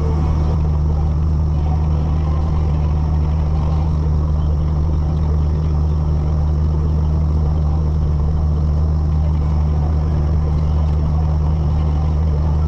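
Tractor engine running steadily while driving on the road, a constant low drone that holds one pitch throughout.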